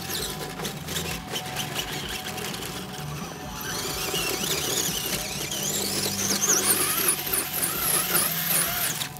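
A 1/10 scale RC offroad truck's motor and drivetrain whining at high pitch, the whine rising and falling with the throttle. It gets louder about halfway through.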